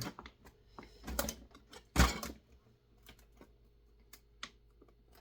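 Clicks and knocks of chainsaw parts being handled and worked apart during disassembly: a few taps about a second in, one sharp knock about two seconds in, then scattered light clicks.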